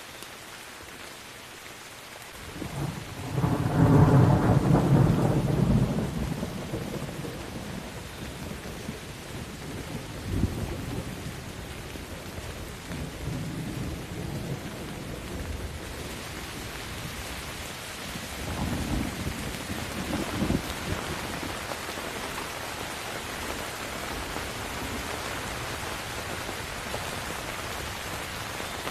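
Steady rain with thunder. A loud rolling rumble of thunder builds about two and a half seconds in and dies away over several seconds. Fainter thunder cracks follow near ten seconds and around twenty seconds, over the continuous hiss of rain.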